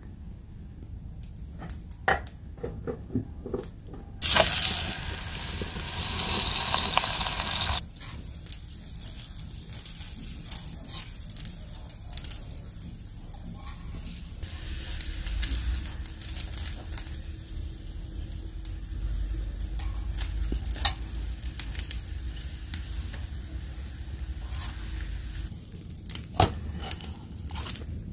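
Paratha frying on a flat iron griddle over a wood fire: a loud burst of sizzling about four seconds in, lasting some three seconds, then a fainter steady sizzle, with sharp clicks and scrapes of a metal spatula on the griddle.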